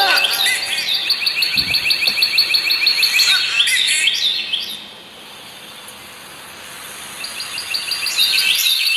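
Bird chirping in a fast run of short, high, repeated notes. The run fades about four and a half seconds in and starts again near the end.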